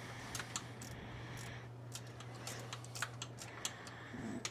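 Scattered light clicks and taps of hand tools working on metal while the old distributor is being removed from an engine bay, a few a second and irregular, over a steady low hum.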